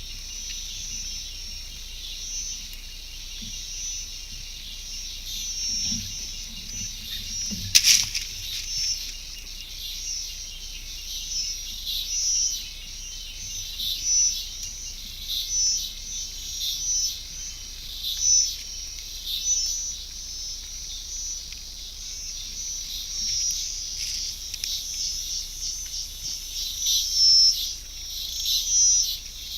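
A dense, continuous chorus of high-pitched insect trilling mixed with bird chirps, swelling and pulsing. One sharp click about eight seconds in.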